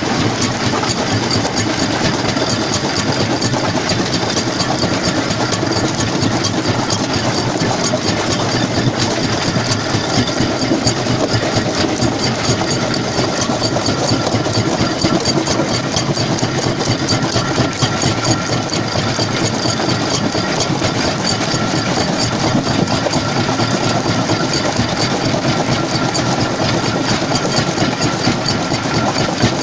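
Stone jaw crusher running, a steady loud mechanical clatter and rumble of rock being crushed along with the machine's drive.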